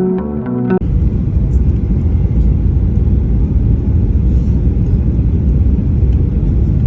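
Music cuts off about a second in, giving way to the steady low rumble of a jet airliner.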